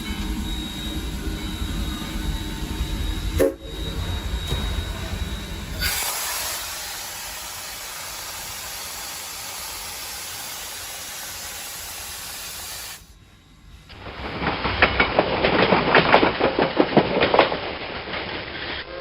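Cab sounds of a three-truck superheated Shay steam locomotive: a low running rumble with a single knock, then several seconds of steady steam hiss. After a brief drop, a louder, rapid crackling noise takes over.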